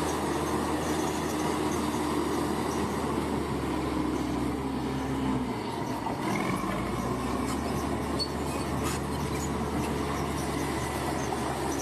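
Large bulldozer's diesel engine running steadily at work, its low note dipping briefly about halfway through before picking up again.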